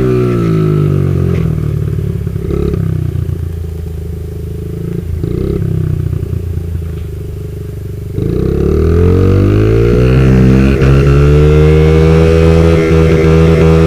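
Motorcycle engine: the revs drop to a low, quieter idle with a brief blip about five seconds in, then rise sharply about eight seconds in and hold high.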